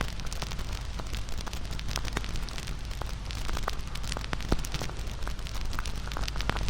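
Wood bonfire crackling, with many sharp irregular pops over a steady low rumble of flame; one louder pop comes about halfway through.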